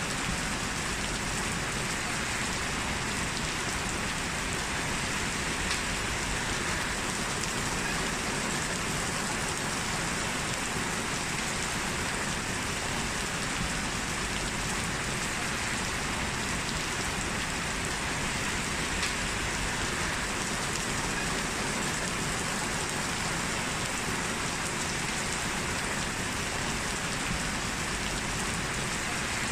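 Steady rain falling, an even hiss with a few individual drops standing out now and then.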